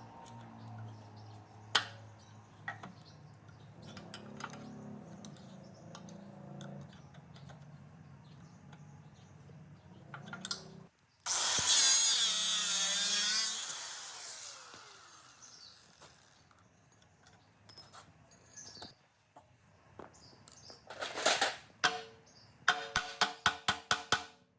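Workshop tool sounds: a power tool runs loudly for about two and a half seconds partway through, with scattered clicks and a quick run of sharp clicks near the end.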